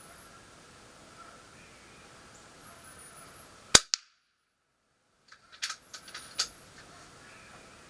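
A single shot from a Kral Puncher Empire XS .22 PCP air rifle a little before the middle: one sharp crack, followed a fraction of a second later by a fainter click. About two seconds later comes a short run of smaller clicks.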